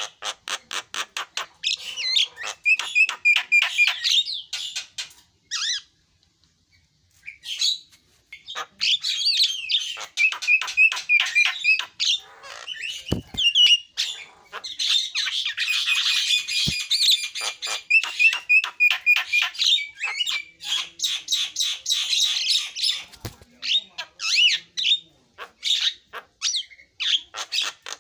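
Javan myna singing: a fast run of harsh squawks, clicks and chattering notes, broken by a brief pause about six seconds in and thickening into a dense harsh stretch in the middle. A few brief low thumps sound under it.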